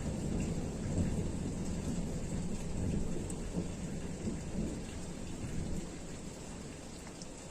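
Distant thunder rumbling low and long over a steady light rain shower, the rumble dying away near the end.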